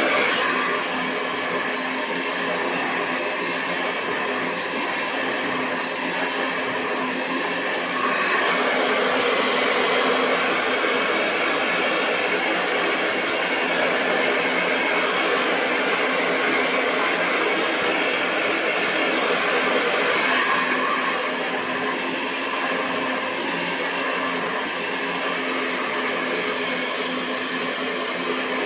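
Hair dryer running continuously, a steady rush of air over its motor's hum. It gets slightly louder and brighter about 8 seconds in, then eases back about 21 seconds in.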